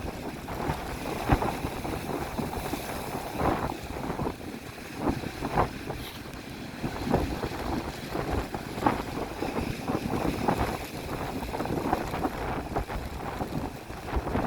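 Strong wind buffeting the microphone in irregular gusts, over the wash of sea waves breaking on the beach.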